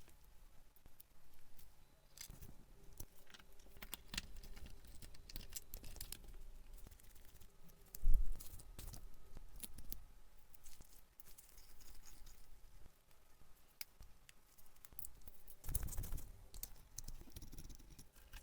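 Small metal parts of a vintage lighter being handled at the bench: scattered light clicks and taps, with one louder knock about eight seconds in.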